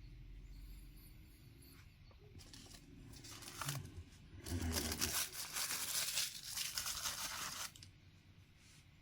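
Packaging being torn open by hand: a couple of short rips, then a longer tearing noise lasting about three seconds.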